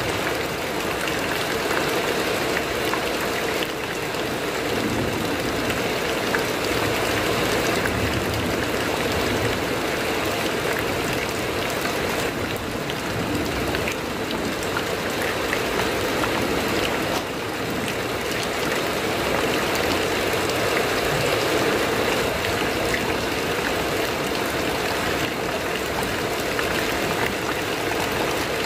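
Heavy rain falling steadily on a corrugated metal roof: an even, dense hiss with a few faint sharp ticks of single drops.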